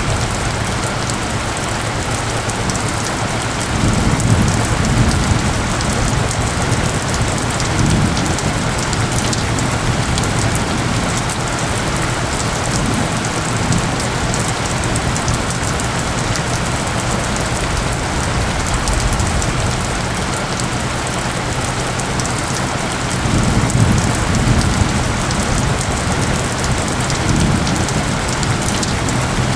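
Steady heavy rain with a low, steady tone underneath. Low thunder rumbles twice, about four seconds in and again past twenty seconds.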